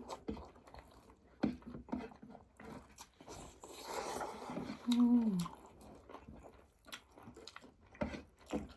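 Close-up eating sounds: a person chewing and biting food, with scattered short wet clicks and smacks. About five seconds in there is a short voiced hum that falls in pitch.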